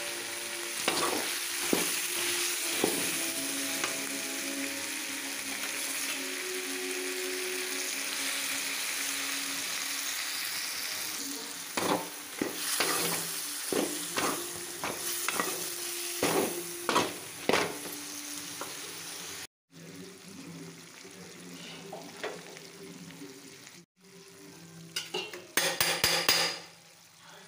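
Country chicken pieces sizzling as they fry in masala in a metal pan. From about twelve seconds in, a steel spatula scrapes and clatters against the pan as the pieces are stirred. The sound drops out briefly twice near the end.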